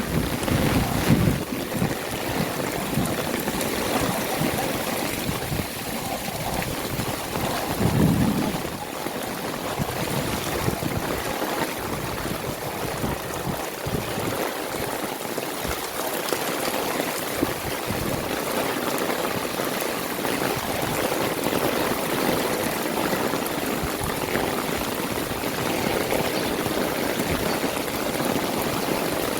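Heavy rain pouring steadily, a dense even hiss of rain and running water. About eight seconds in there is a brief low rumble.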